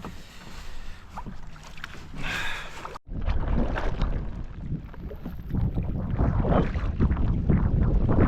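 Kayak paddling: paddle strokes splashing in the water. About three seconds in, heavy wind rumble on the microphone sets in abruptly and becomes the loudest sound.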